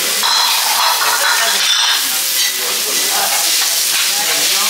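Beef steaks and sliced vegetables frying on a teppanyaki steel hot plate: a steady, loud sizzle.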